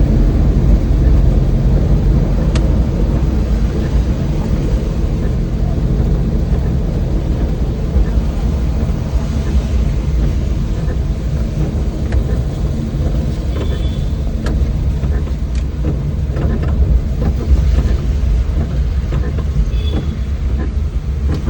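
An old van's engine and road noise while driving, heard from inside the cabin: a steady low drone.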